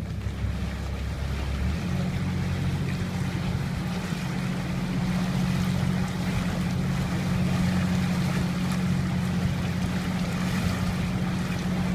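Canal tour boat's motor running steadily, with water and wind noise; its note shifts about two seconds in.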